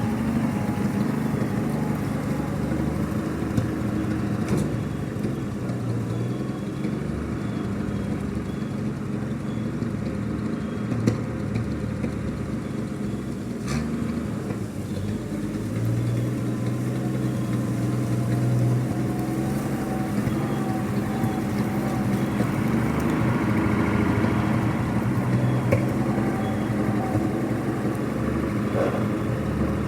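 World War II International KS4 truck's engine running steadily, with a few short knocks along the way.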